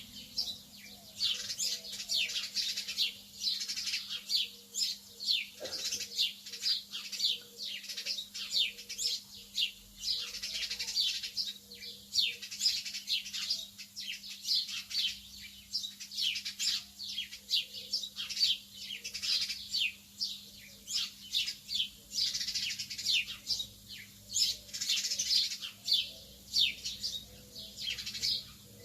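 A flock of lovebirds chirping nonstop: many rapid, high-pitched chirps overlapping one another, with a faint steady hum underneath.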